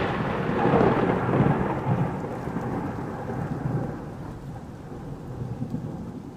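A loud, noisy rumble that sets in abruptly and fades slowly over several seconds, over a steady hiss.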